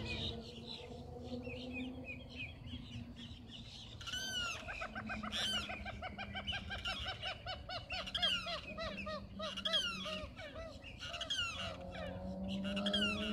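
Lakeside birds calling: from about four seconds in, one bird gives a long, rapid run of repeated notes over other chirps and squawks.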